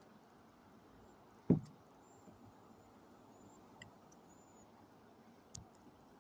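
A kayak paddle knocking once against the kayak's plastic hull about a second and a half in, with a fainter knock near the end, over a low steady hiss.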